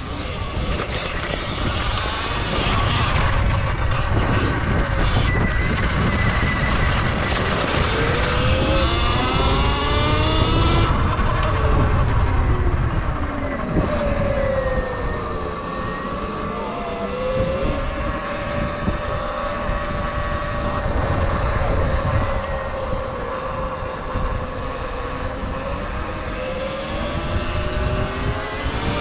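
Electric dirt bike's motor whining as it rides, its pitch rising and falling with speed, over steady wind rumble on the microphone.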